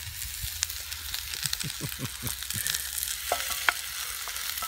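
Potatoes and onions sizzling steadily in butter in a frying pan over a campfire, browning, while a wooden spatula stirs them with short scraping strokes.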